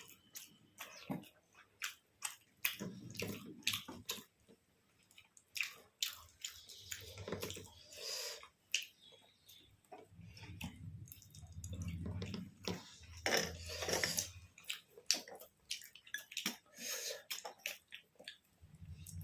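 Close-up eating sounds: wet chewing and lip smacking, with many short clicks through the stretch and a few denser spells of chewing.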